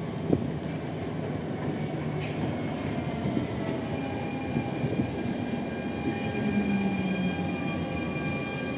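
Modern Lisbon city tram running on its street rails: a steady rumble, a sharp click just after the start, and a thin, steady high whine that comes in about halfway through.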